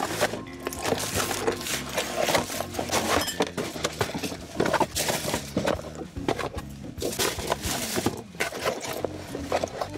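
Close-miked eating sounds: irregular crisp crunches and chewing of crispy fried food.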